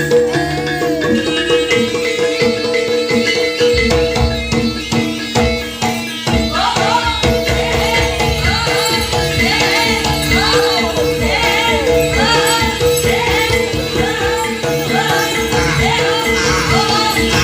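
Live jaranan ensemble music for a kuda lumping and barong performance: drums and jingling percussion under a held tone, with a high melody line that bends up and down in repeating phrases. The drumming gets heavier and busier about four seconds in.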